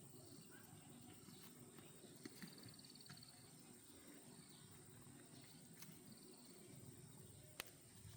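Near silence: faint outdoor ambience with a steady high insect whine and a short chirping trill, and a few light clicks.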